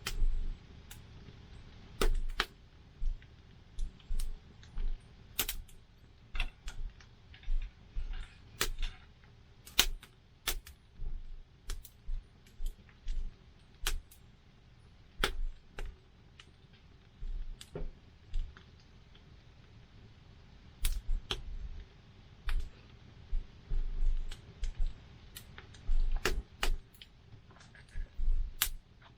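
Wood campfire crackling: irregular sharp pops and snaps, sometimes several in quick succession and sometimes a few seconds apart, over a faint low rumble.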